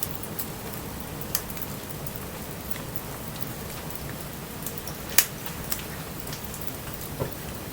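Wood campfire burning in light rain: a steady patter of rain with scattered sharp crackles and pops from the fire, the loudest pop about five seconds in.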